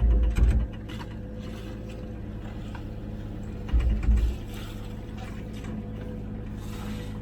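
Komatsu PC16 mini excavator's diesel engine running steadily under hydraulic load while the bucket scoops water, with water sloshing. Heavy low surges come at the start and again about four seconds in.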